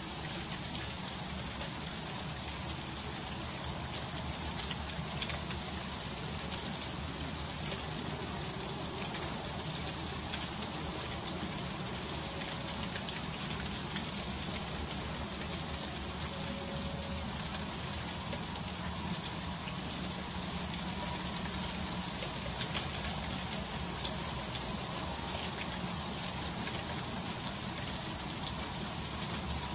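Freezing rain falling steadily: a dense, even patter of many small drops ticking on icy surfaces.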